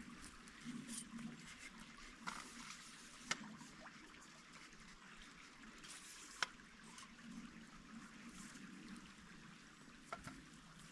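Stream water trickling steadily and faintly, with four short sharp clicks scattered through, the loudest about six seconds in.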